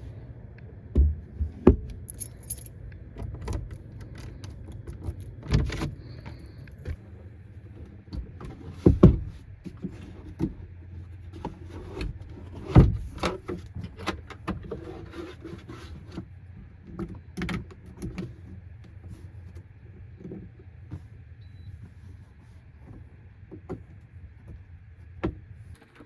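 A bunch of keys jangling, with scattered clicks and knocks of handling, over a steady low hum.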